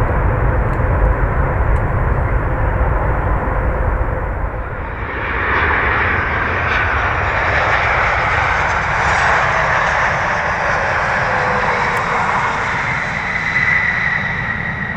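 A low rumble, then, about five seconds in, a Boeing 737-800's CFM56 jet engines swelling as the airliner comes in on final approach to land, with an engine whine that falls in pitch as it passes.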